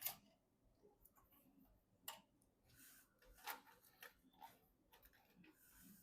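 Sparse light clicks and ticks with short soft rustles: small computer parts and packaging being handled during a PC build.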